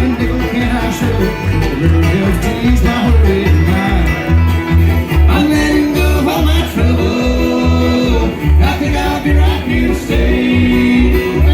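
Bluegrass band playing: banjo and guitar picking over a steady, even bass beat.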